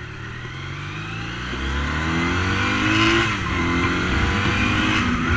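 Honda CB400 motorcycle engine accelerating hard, its pitch rising, dropping at a gear change about three seconds in, then rising again. The engine pulls strongly, a sign of good carburation.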